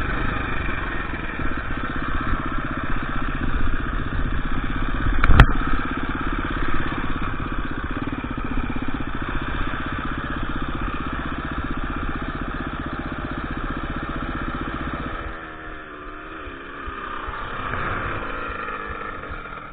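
KTM EXC 350 dirt bike's single-cylinder four-stroke engine running at a steady, low speed, with one sharp knock about five seconds in. About fifteen seconds in the engine stops suddenly, leaving a fainter wavering drone.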